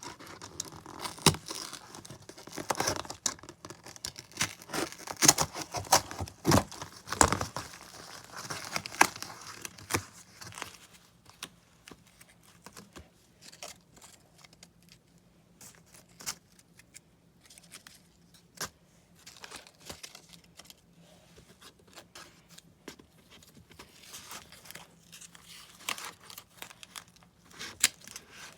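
Tape and cardboard being worked by hand: tearing and crinkling, dense for the first ten seconds or so, then sparser clicks and rustles, with a short busy spell again near the end.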